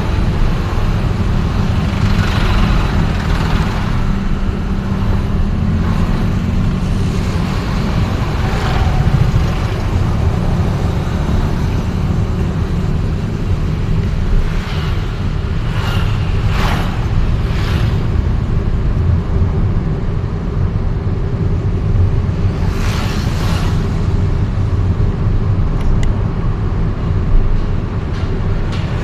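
Road traffic heard while travelling through a town: a steady low rumble of engine and tyres, with a few vehicles swishing past close by, several in the second half and one at the very end.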